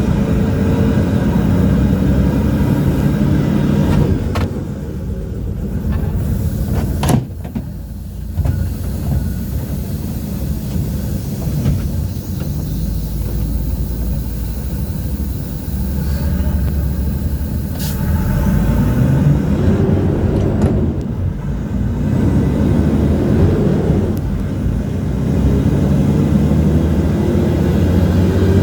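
City bus engine heard from inside the bus while riding, speeding up several times with the engine pitch rising and easing off in between. A sharp knock about seven seconds in.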